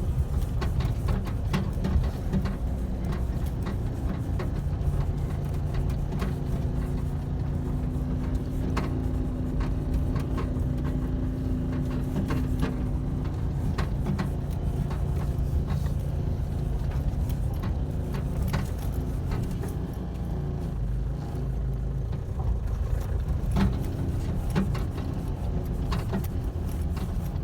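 Motor vehicle engine running at a steady speed, a constant low rumble with a steady hum and occasional small rattles.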